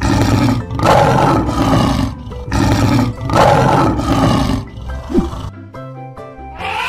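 Lion roaring twice, each roar about two seconds long, over light background music.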